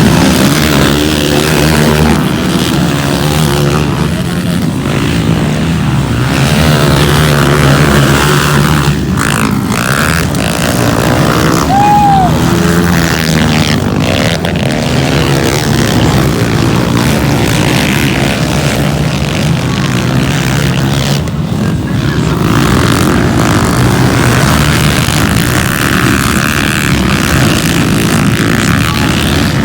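Motocross bikes' engines running hard on the track, the engine note rising and falling continuously.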